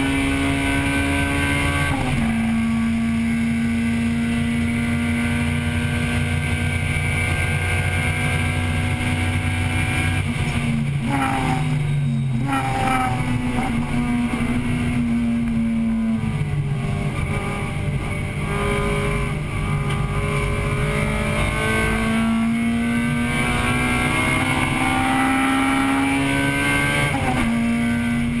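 1998 Acura Integra Type-R's four-cylinder VTEC engine running hard at racing speed, heard from inside the car. Its pitch drops at a gear change about two seconds in, breaks up briefly near the middle with a lift and downshifts, then climbs steadily before dropping again at an upshift near the end.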